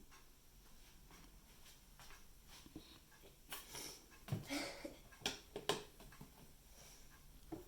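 Faint scattered clicks and short handling noises, a handful of them clustered in the middle, over quiet room tone.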